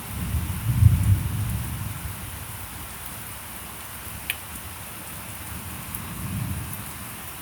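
Heavy rain falling with a steady hiss. A low rumble of thunder swells in the first two seconds, and a fainter one comes about six seconds in, with a single sharp tick a little past the middle.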